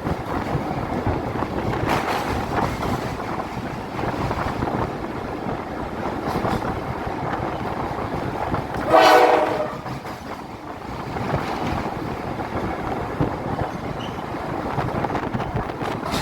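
A train running steadily over a bridge with a continuous rumble and clatter, and one short blast of the locomotive's horn about nine seconds in, the loudest sound.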